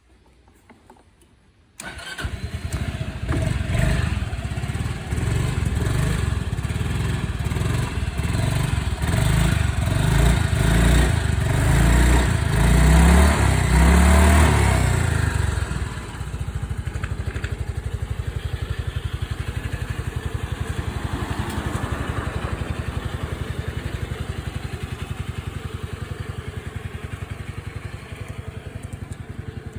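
Honda Fusion 250 scooter's single-cylinder engine starting about two seconds in and running unevenly, with its speed rising and falling. About halfway through it settles into a steady, even idle.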